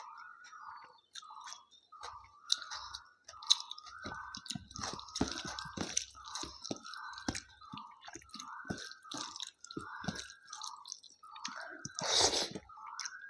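A person chewing food close to the microphone, in an even rhythm of about one chew a second, with one louder crunch near the end.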